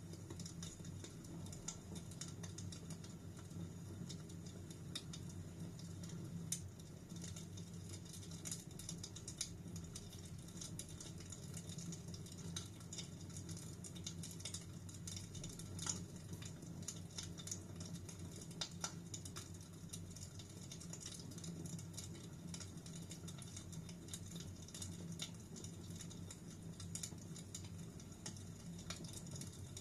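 Fireplace fire crackling, with small irregular pops and snaps over a steady low hum.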